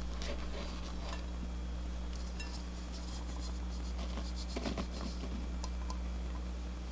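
Spatula scraping and tapping against a mixing bowl while folding macaron batter (macaronage), with a cluster of louder knocks about four and a half seconds in, over a steady low electrical hum.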